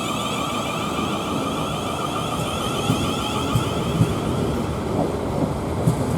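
Electric train running, its traction motors giving off a layered electronic whine that fades away over a steady rumble, with a few knocks from the wheels on the track in the second half.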